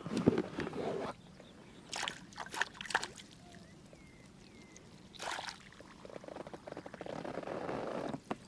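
Water sloshing and splashing in several irregular bursts as a freshly caught small pike is landed and handled, loudest in the first second.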